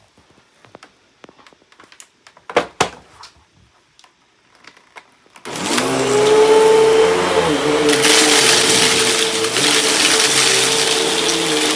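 A few light clicks and two sharper knocks, then about halfway through a Hoover vacuum cleaner switches on and runs steadily, its motor whine settling to one steady pitch.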